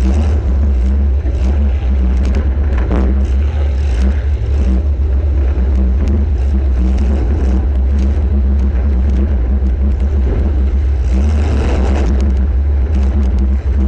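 Demolition derby compact car's engine running hard, heard from on board with a heavy, constant low rumble and a pulsing drone, broken by scattered short knocks and bangs from the car being driven and hit.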